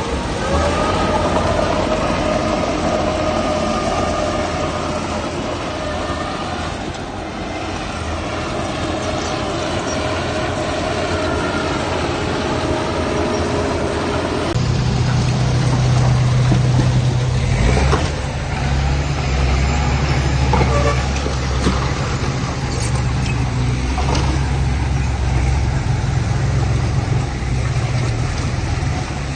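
Heavy earthmoving machinery working: diesel engines running with a steady whine through the first half, then about halfway in a deeper, louder engine drone takes over.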